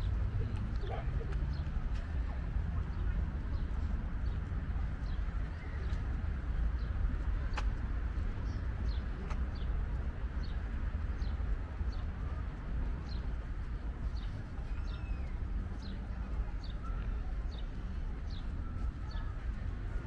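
A small bird calling with short, high, falling chirps: a few at the start, then about one a second from the middle on, over a steady low rumble.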